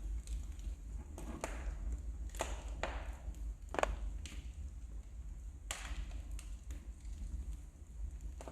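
Wood fire crackling in a fireplace: sharp pops from the burning logs at irregular intervals, roughly one a second, over a steady low rumble.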